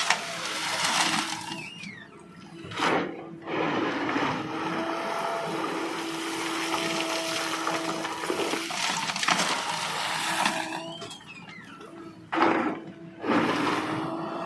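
JCB 3DX backhoe loader working as it loads mud, its diesel engine and hydraulics giving a steady hum that breaks off and returns. Loud rushing surges come about three seconds in, again partway through, and near the end.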